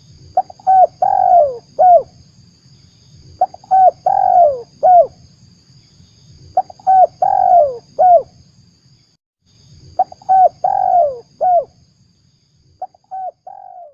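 Spotted dove (tekukur) cooing as a lure call, one phrase about every three seconds. Each phrase has a few short coos around one longer falling coo, with a faint steady hum beneath.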